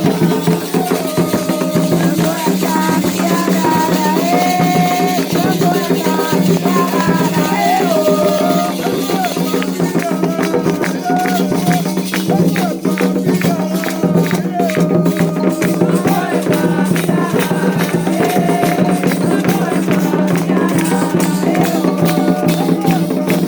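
Voices singing a Candomblé chant over shaken rattles, the rattling growing denser about ten seconds in.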